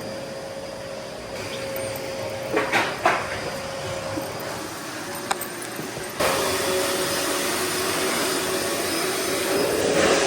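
Vacuum cleaner running with a steady motor hum. A few knocks come around a third of the way in, and about six seconds in the sound suddenly gets louder and its pitch drops.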